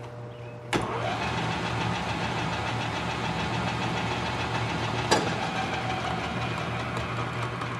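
Hardinge HC-T chucker lathe switched into its second speed with a sharp click about a second in, then running steadily under power. Another sharp click comes about five seconds in.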